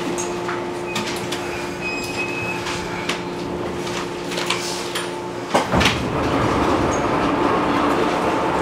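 JR Kyushu 415 series electric multiple unit heard from inside the passenger car as it approaches its stop. A steady hum runs under scattered clicks of the wheels over the rails. About five and a half seconds in come a couple of thumps, and the running noise then grows louder and rougher.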